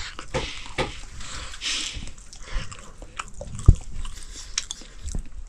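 Chewing and biting with irregular crunches and sharp clicks, the loudest crunch about three and a half seconds in.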